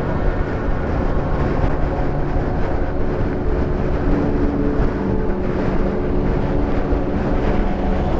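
Motorcycle engine running under way, with wind rushing over the microphone; the engine note shifts about halfway through.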